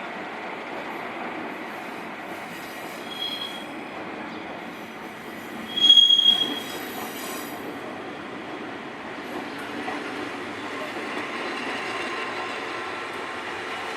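A Kishigawa Line electric train running past on the rails, a steady rumble of wheels. A short high-pitched wheel squeal comes about three seconds in, and a louder one lasting under a second about six seconds in.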